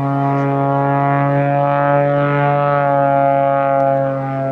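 Pitts Special S-2S aerobatic biplane in flight, its six-cylinder engine and propeller giving a steady, loud drone whose pitch drifts slightly.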